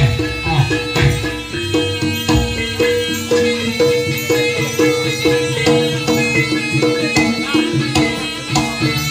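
Jaranan ensemble music: hand drums and a repeating melodic pattern of short struck notes, going at a steady brisk rhythm.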